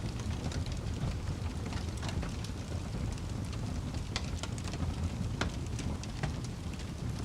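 Wood fire burning in a fireplace: a steady low rumble of the flames with irregular sharp pops and crackles of burning wood.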